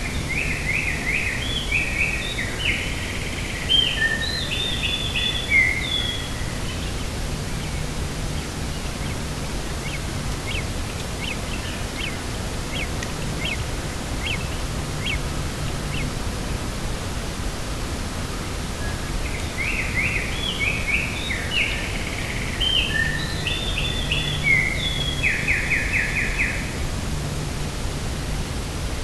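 A songbird singing a short, varied phrase twice, about twenty seconds apart, the second ending in a quick trill, over steady wind noise. Between the two songs comes a run of thin ticking calls, about two a second.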